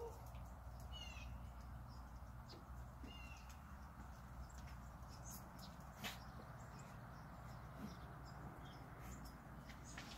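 Quiet outdoor background with a low steady hum, a few faint clicks, and short bird chirps about one and three seconds in.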